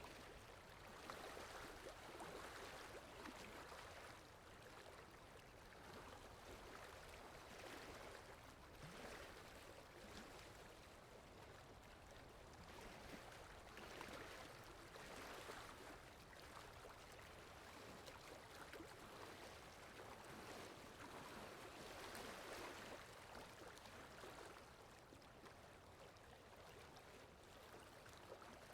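Faint, steady rushing of a stream's running water, swelling and easing every few seconds.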